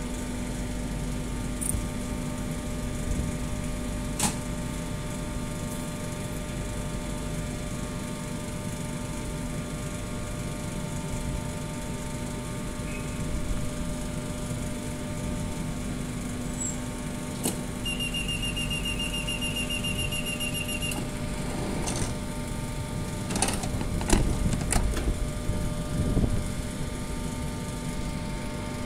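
Stationary LNER Azuma train humming steadily at the platform. About 18 seconds in, its door-closing warning beeps rapidly for about three seconds, then the doors shut with several thumps over the next few seconds.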